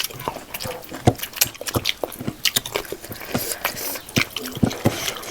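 Close-miked eating sounds: a person chewing pork leg and rice, with irregular wet mouth clicks and lip smacks.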